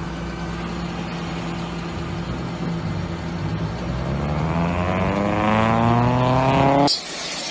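Car engine running steadily, then revving up with a climbing pitch for about four seconds as the car accelerates. It cuts off abruptly near the end.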